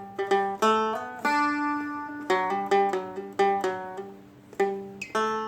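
Guitar picking a country intro riff on the low strings: quick single notes, with hammer-ons bumping the pitch up, and one longer ringing note about a second in.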